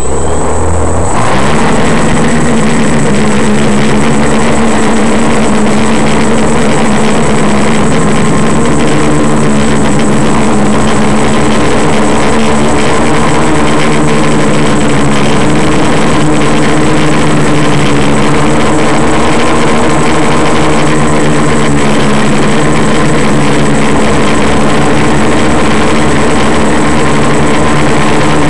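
Quadcopter's electric motors and propellers running: a loud, steady multi-tone hum with a thin high whine. It starts abruptly, rises in pitch about a second in as the props spin up, then holds.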